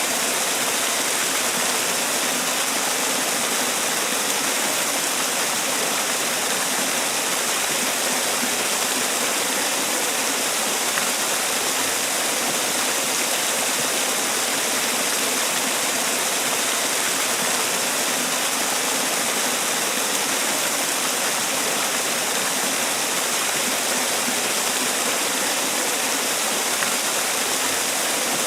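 Man-made waterfall: water pouring and splashing in a steady, even rush with no change.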